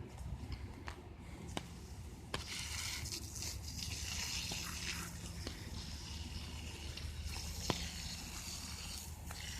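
Garden hose spraying water, the hiss getting louder about two seconds in, with scattered raindrops ticking on an umbrella overhead.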